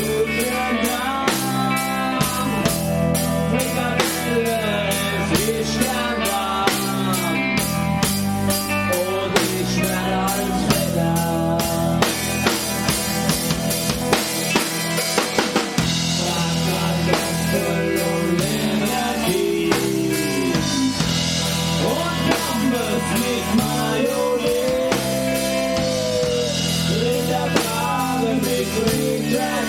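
Live rock band playing a song: a drum kit with bass drum and snare keeps a steady beat under the band, with a melodic line bending up and down in pitch.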